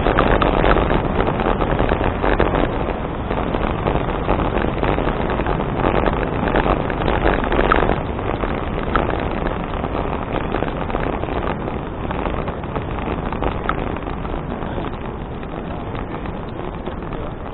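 Wind rushing over an action camera's microphone while riding a touring bicycle, with tyre and road noise and small rattles from the bike, slowly getting quieter toward the end.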